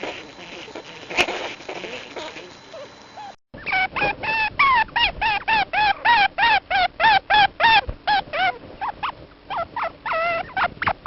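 Plains viscacha calling: a fast run of short calls, each rising and falling in pitch, about three a second, thinning out near the end. Before it come a few seconds of rustling noise with a couple of clicks.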